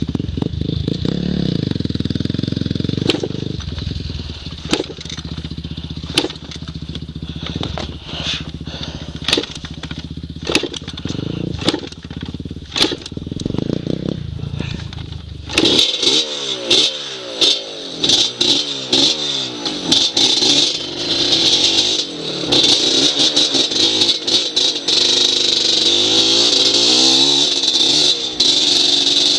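Dirt bike engine running at a steady low speed for about the first half, with sharp cracks and knocks over it. About halfway through it switches to repeated revving, the pitch rising and falling as the bike is ridden.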